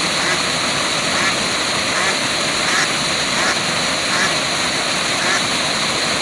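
Waterfall rushing steadily, with a faint call or chirp from an animal repeating about every three-quarters of a second above the water.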